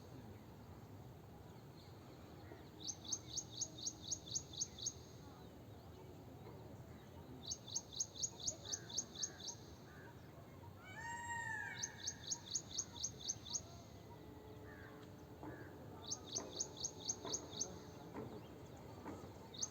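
A small bird repeating bursts of about nine sharp high chirps, each burst about two seconds long and coming every four to five seconds. A single lower, arching call sounds once about halfway through.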